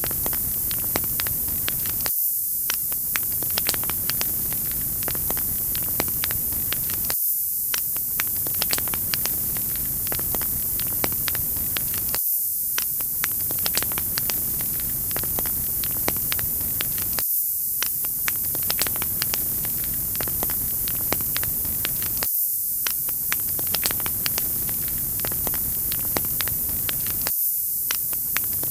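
Wood fire crackling in a fireplace: a steady hiss with frequent sharp pops and snaps, as a short recording repeating about every five seconds.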